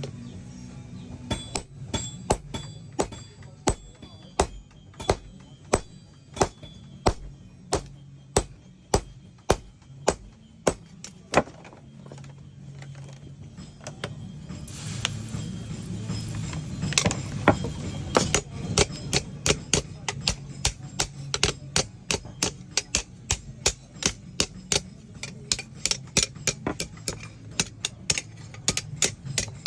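Hammer striking the edge of a forged meat knife on an anvil in a steady rhythm, about one and a half blows a second at first, quickening to about three a second in the second half. A hiss rises over the blows about halfway through.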